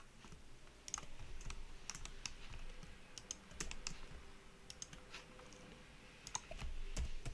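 Faint, irregular clicks and taps of a computer keyboard and mouse being worked.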